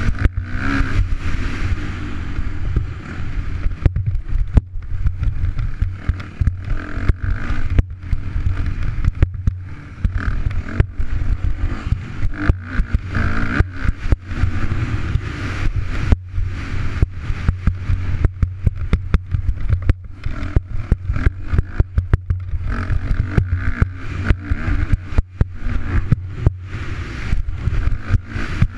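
2011 Yamaha YZ250F's 250 cc four-stroke single-cylinder engine being ridden hard, revving up and down continuously, with many sharp crackles and brief dropouts from the bike-mounted action camera's microphone.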